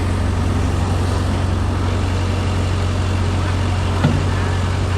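Mini excavator's engine running steadily, with a single sharp knock about four seconds in.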